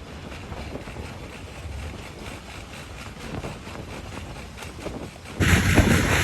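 Steady low rumble and noise of a moving vehicle, with wind on the microphone. About five seconds in it jumps abruptly to much louder, rougher noise that holds.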